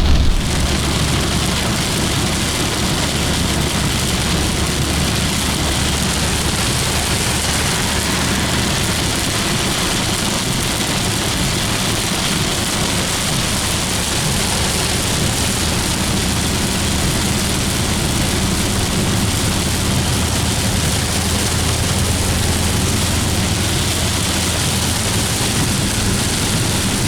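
Torrential rain hitting a moving car, heard from inside the cabin as a steady, dense hiss over the low hum of the engine and tyres.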